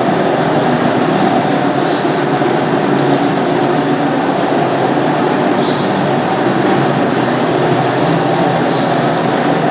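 Marble floor polishing machine running steadily, its handmade cedar-sawdust buff rubbing over the marble floor.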